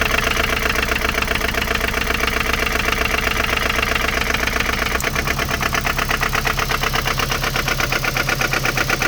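Mazda MX-5 NC's 1.8-litre four-cylinder engine running at idle with a fast, even knocking rhythm; this is the knock the owner is trying to trace. Its low note shifts about five seconds in.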